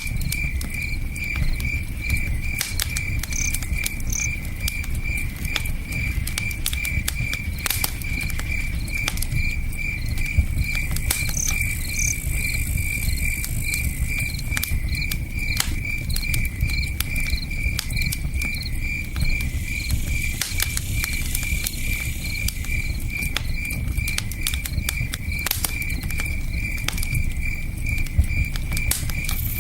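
Campfire crackling with scattered sharp pops, over the steady low rush of a river and a cricket chirping in an even, rapid pulse.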